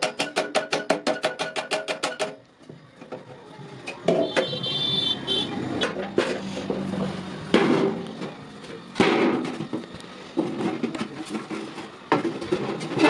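Hammer striking iron in a fast, even run of about eight ringing blows a second, stopping about two seconds in; then scattered, irregular knocks and clanks of metal.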